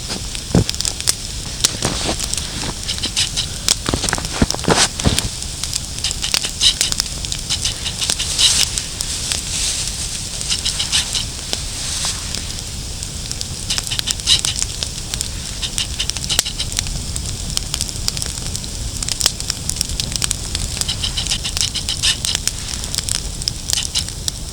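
Campfire of damp branches burning, crackling with many sharp irregular pops over a steady hiss.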